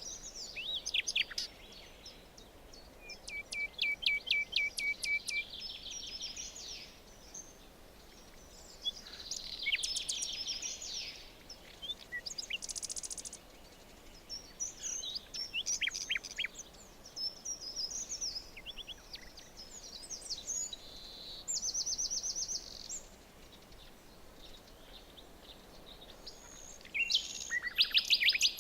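Several songbirds singing and calling in turn and overlapping: short phrases of repeated chirps, quick trills and single notes, over a faint steady hiss of forest ambience. The loudest burst of song comes near the end.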